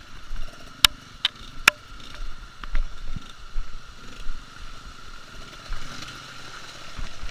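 Trail motorcycle moving slowly over rough ground: a low uneven rumble with three sharp knocks close together about a second in.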